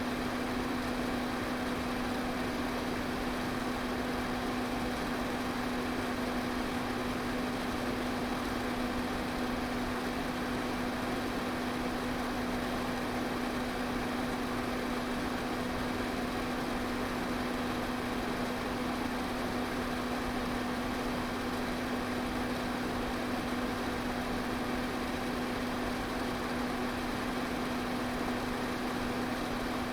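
Electric pedestal fan running steadily: an even rush of moving air over a constant low motor hum.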